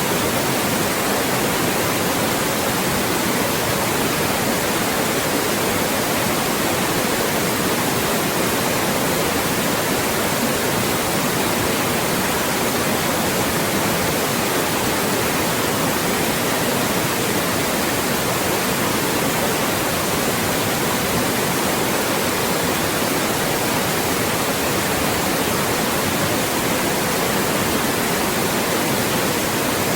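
Loud, steady white noise: an even, unchanging hiss across the whole range of pitch, used to mask voices.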